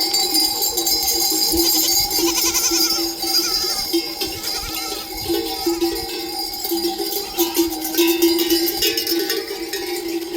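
Bells on a flock of sheep and goats clanking continuously as the animals move, with a bleat about two seconds in.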